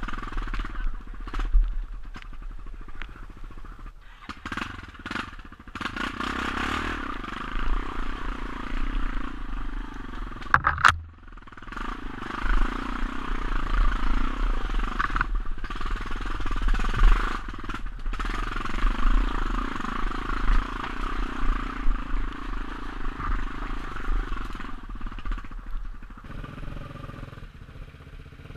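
Motorcycle engine running and being revved unevenly, its level rising and falling, with scattered knocks and clatter from the bike.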